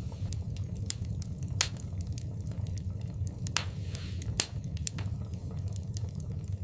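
Wood fire burning in a fireplace: a steady low rumble of the flames with irregular crackles and sharp pops, two louder pops about one and a half seconds and four and a half seconds in.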